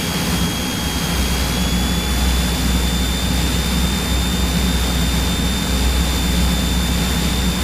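Cessna 172's piston engine and propeller droning steadily, heard inside the cabin in flight, with a thin high whine running through it.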